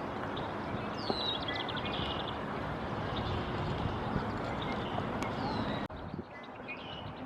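Songbird calls over a steady rushing noise: a high downward-slurred note and a quick run of notes about a second in, then another slurred note. The background changes abruptly about six seconds in.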